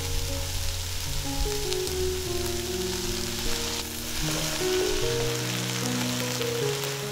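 Shanghai greens and mushrooms sizzling as they stir-fry in a wok, tossed with a wooden spatula. Soft background music plays under the sizzle.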